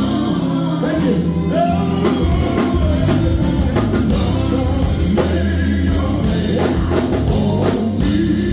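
Live gospel band: a lead voice singing over electric guitar, bass and drum kit, with a steady beat.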